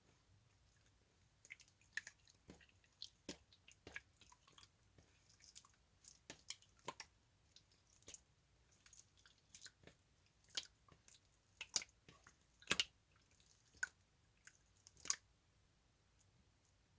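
Slime being squeezed and poked by hand, making irregular small sticky pops and clicks, a few of them louder.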